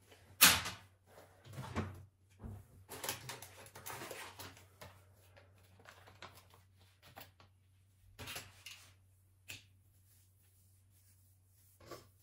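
Household handling sounds: a sharp clack about half a second in, then a stretch of rustling and light knocks, with a few more short knocks later.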